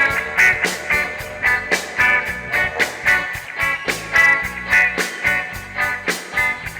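Reggae band playing live: a steady, even beat of drum hits and plucked guitar chords.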